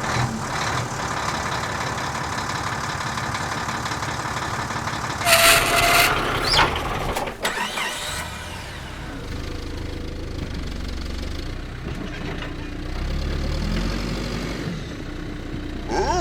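A vehicle engine running, with a short loud burst about five seconds in and a click a couple of seconds later. After that the engine settles to a lower, steady hum.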